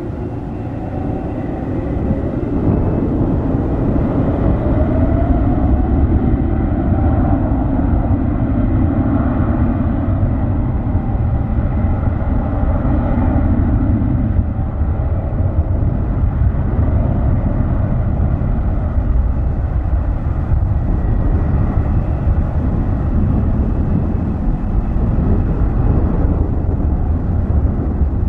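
Airbus A330-900neo's two Rolls-Royce Trent 7000 turbofans at takeoff thrust: a loud, steady jet roar heavy in the low end. It builds over the first few seconds, with tones gliding in pitch early on.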